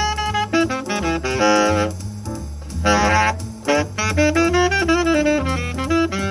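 Swing jazz instrumental break: a tenor saxophone plays a quick melodic line of many short notes over a steady bass line and horn backing.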